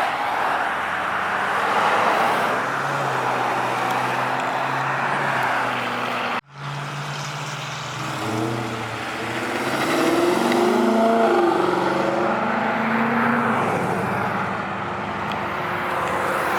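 Car engines running as cars drive past at a car show. About eight seconds in an engine revs, its pitch rising and falling over several seconds. The sound cuts out for a split second a little past the six-second mark.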